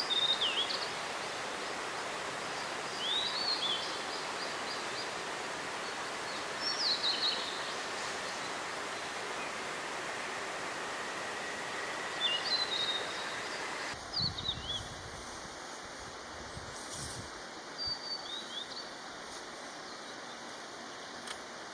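Blue-and-white flycatcher singing: short phrases of clear, sweeping whistled notes, repeated every three to four seconds, over the steady rush of a mountain stream.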